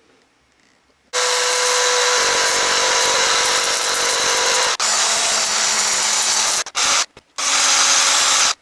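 A Makita TD172D cordless impact driver's motor spinning freely with the trigger held, its pitch shifting about two seconds in. It stops for a moment, then gives two short blips and a last run that cuts off suddenly at the end.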